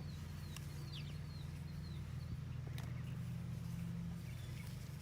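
A steady low machine hum, with several short high bird chirps in the first second and a half and a few faint clicks.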